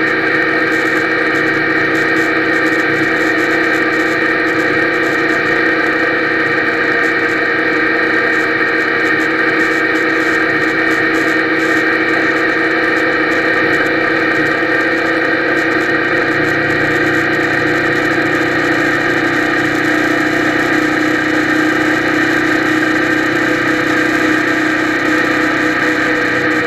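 Sport motorcycle engine running at a steady speed, with wind and road noise, heard muffled through the action camera's waterproof housing inside a road tunnel.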